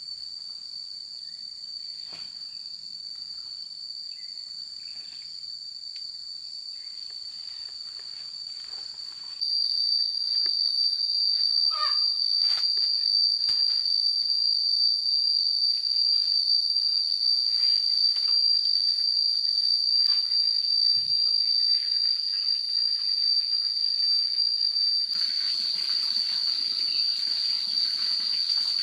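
A steady, high-pitched chorus of insects, which gets louder in one step about nine seconds in. Scattered light clicks and knocks sound under it, and near the end a soft rushing noise joins in.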